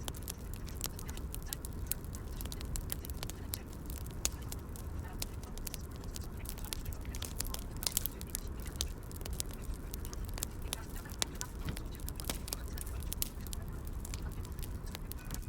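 Wood fire crackling: frequent sharp pops and snaps, irregular and scattered, over a steady low rumble.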